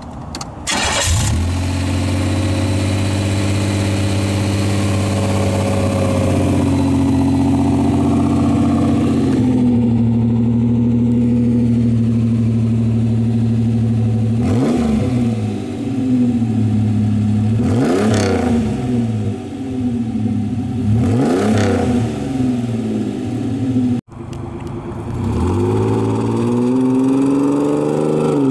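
A 1988 Pontiac Fiero's 2.8-litre V6 starts about a second in and settles from a fast idle into a steady idle. It is then revved three times, a few seconds apart, each rev rising and falling back. Near the end the sound cuts off abruptly, and the engine is heard again idling and settling.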